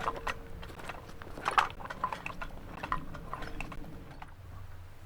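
A run of irregular knocks and crunches, loudest about one and a half seconds in, over a faint steady tone that fades out near the end.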